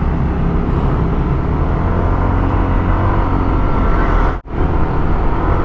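A motor scooter's engine runs steadily under way in traffic, mixed with road and wind noise. The sound drops out abruptly for a moment about four seconds in.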